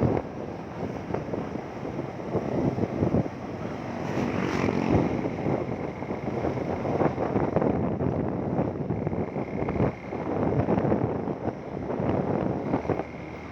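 Wind buffeting the microphone on a moving motorcycle, gusting unevenly, with engine and road noise underneath.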